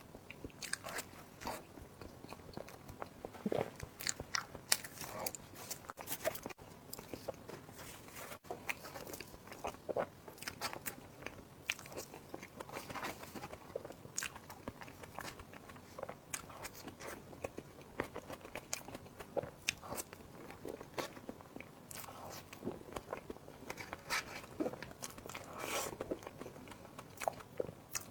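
A person chewing and biting food close to the microphone, with many short, irregular crunching clicks.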